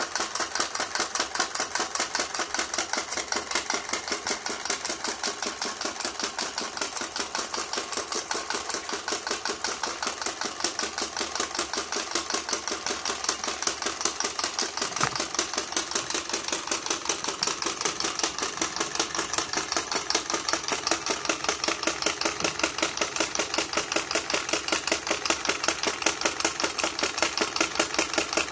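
Small model Stirling engine running, with a fast, even mechanical clatter.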